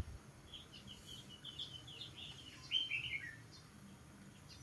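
Small birds chirping: a quick run of high, short chirps, loudest about two-thirds of the way through and ending in a falling trill. A soft low bump comes right at the start.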